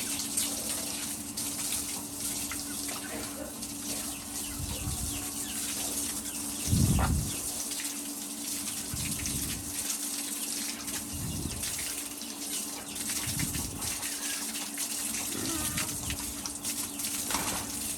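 Steady rush of running water, with a low hum under it and short low thuds about every two seconds, the loudest about seven seconds in.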